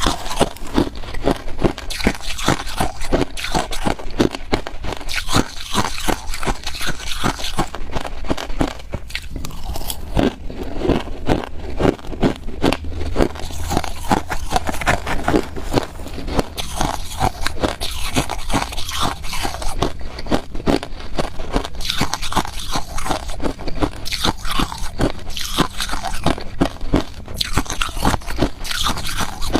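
A person biting and chewing ice close to the microphone: rapid, continuous crunching with no pauses.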